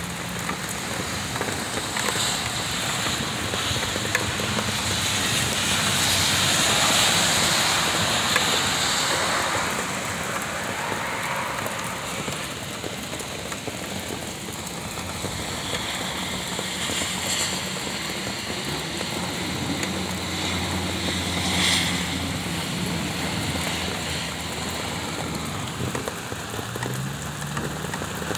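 Heavy rain pouring onto pavement, a steady hiss that swells for a few seconds near the start, over a faint low steady hum.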